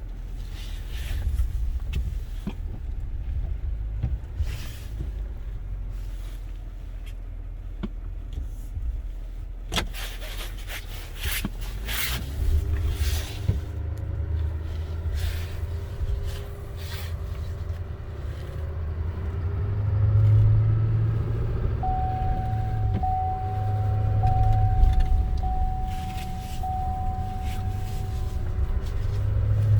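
GMC Sierra HD AT4 diesel pickup pulling away and driving, a low engine and road rumble heard from inside the cab. A few knocks sound around ten seconds in, and the engine pitch rises as it accelerates soon after. Near the end a steady high tone sounds for several seconds.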